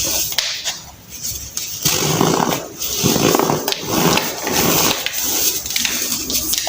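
Compacted baking soda being crushed and crumbled by hand: a run of irregular crunches, several a second, with a squeaky edge.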